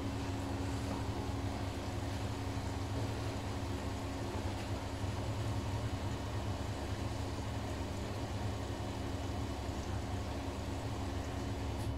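Siemens iQ500 front-loading washing machine in its spin cycle: the drum and motor running with a steady, even hum.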